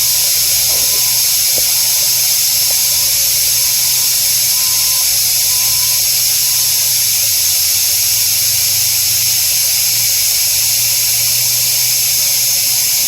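A machine running steadily: a low motor hum under a loud, even high-pitched hiss.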